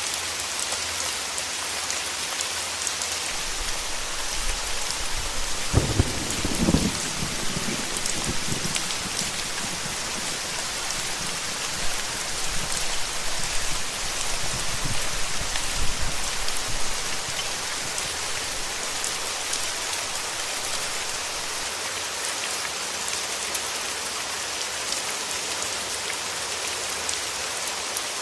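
Steady heavy rain. A roll of thunder breaks in sharply about six seconds in and rumbles on in waves until about seventeen seconds.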